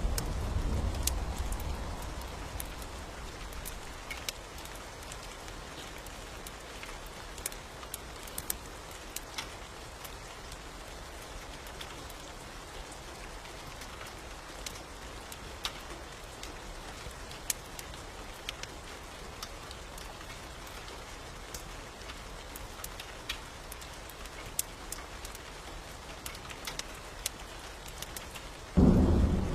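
Steady rain with many scattered sharp drips and clicks. A low rumble of thunder fades out over the first few seconds, and a sudden loud low rumble of thunder breaks in near the end.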